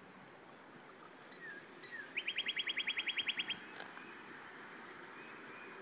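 Northern cardinal singing close by: two short downslurred whistles, then a fast loud trill of about a dozen notes, roughly ten a second.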